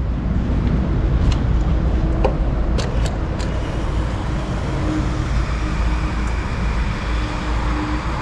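Steady motor-vehicle noise with a low rumble, broken by a few sharp clicks in the first half.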